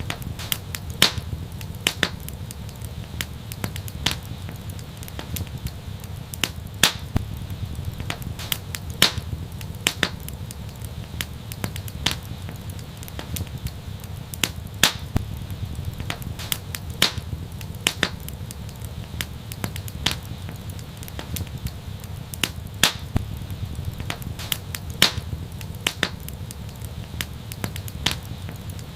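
Wood fire crackling: irregular sharp pops, one or two loud ones a second among many fainter ticks, over a low steady rumble.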